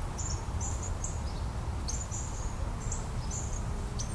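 Honey bees humming around an opened top-bar hive, a steady low drone, with short high chirps repeating several times a second over it.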